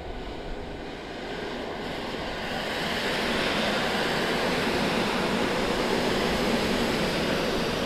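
A train running past on the station track: a steady rushing of wheels and rolling noise that builds over the first three seconds, then holds loud and even.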